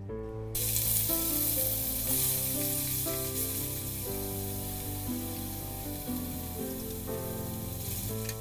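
Chicken and prawn pieces hitting hot oil in a kadai, breaking into a sudden sizzle about half a second in and frying on steadily as a wooden spatula stirs them. Background music plays underneath.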